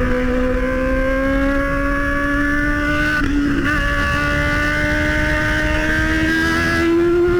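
Motorcycle engine pulling steadily under way, its pitch climbing slowly as the bike gains speed, with a short break about three seconds in like a gear change. Wind rush on the microphone underneath.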